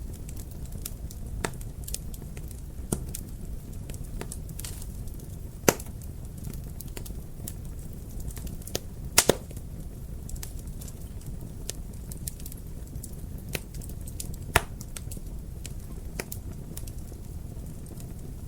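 Wood fire in a fireplace crackling, over a steady low rumble, with scattered pops. The loudest pops come about six seconds in, as a quick double pop just after nine seconds, and again at about fourteen and a half seconds.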